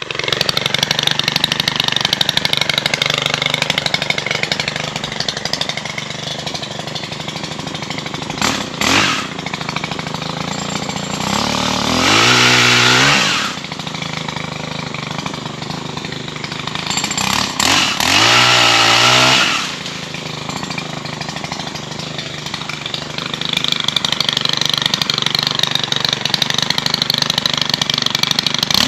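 Engine running steadily, revved up and back down twice for about two seconds each, about a third and two-thirds of the way through.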